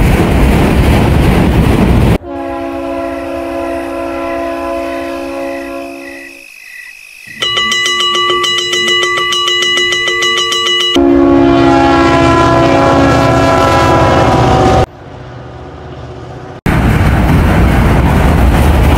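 A train at night: loud rumbling of the passing train, a locomotive horn sounding a held chord that fades out, then a railroad crossing bell ringing rapidly, the horn again over the rumble, and near the end the loud rumble of the train passing once more.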